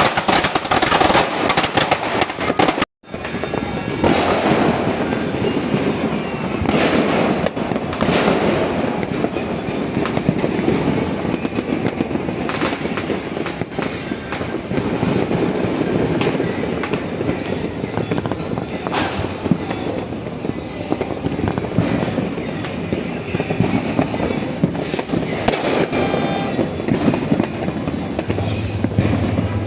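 Many fireworks and firecrackers going off at once, dense overlapping bangs and crackles that merge into a continuous din. The sound cuts out for a split second about three seconds in.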